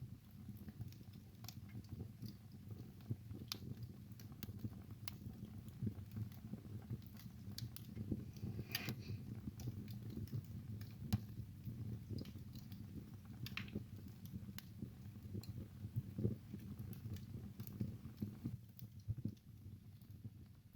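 Wood fire burning in a fireplace, with a steady low rumble of the flames and irregular sharp crackles and pops of the burning logs.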